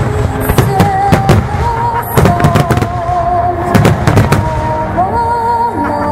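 Starmine fireworks display: repeated bangs and crackles of shells bursting in quick succession, over music with a singing voice holding long, wavering notes.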